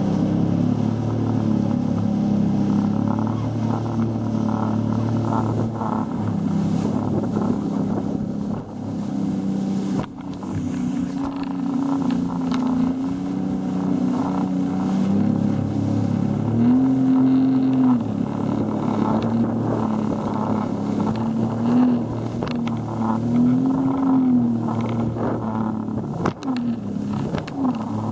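Boat engine running steadily, its pitch rising and falling briefly several times in the second half as the throttle is worked.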